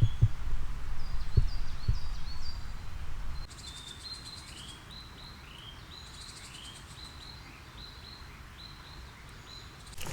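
Wild songbird calling in runs of short, high, quickly repeated notes. A low rumble with a few dull thumps underneath fades out about three seconds in.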